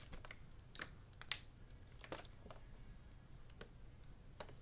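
A few faint, irregular clicks and taps, spaced unevenly, with quiet room tone between them.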